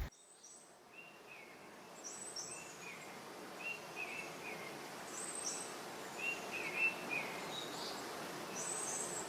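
Songbirds chirping, short repeated calls recurring over a steady background hiss.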